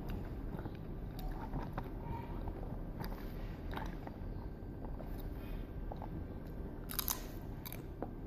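A person biting and chewing crunchy food close to the microphone: scattered crisp crunches, with the loudest cluster about seven seconds in, over a steady low hum.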